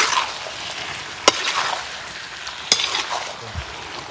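Goat head meat and onions frying in a metal wok, stirred with a perforated metal skimmer: a steady sizzle with scraping strokes and three sharp clinks of the spoon against the pan.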